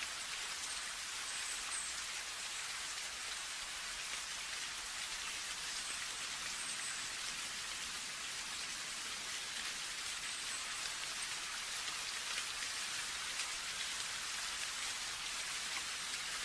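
Steady rain: a constant hiss of many drops, with scattered individual drop ticks on top.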